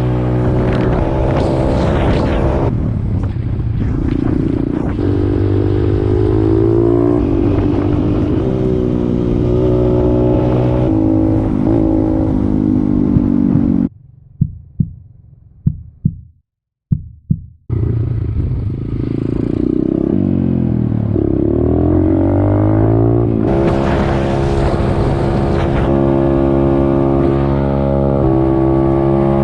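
Pit bike engine running on the move, its pitch rising and falling as it is revved and shifted through the gears. About halfway through, the sound drops away for about four seconds, broken by a few sharp clicks, and then the engine comes back.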